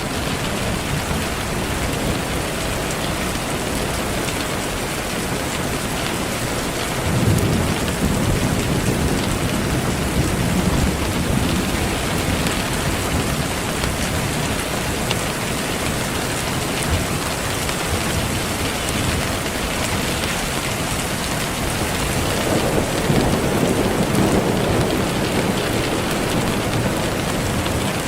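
Steady rain falling in a continuous hiss, with two low rolls of thunder, one about a quarter of the way in and another about three-quarters of the way in.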